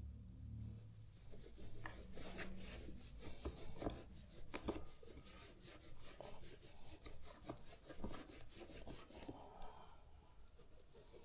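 Irregular rubbing and scraping, with many short light clicks and taps.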